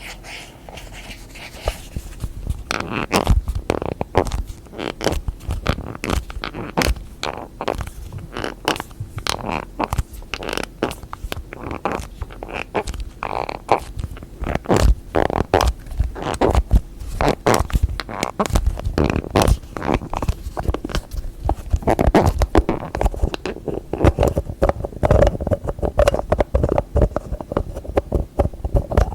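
Fast, irregular tapping on objects and their lids, many sharp taps a second, beginning about two seconds in after softer rubbing.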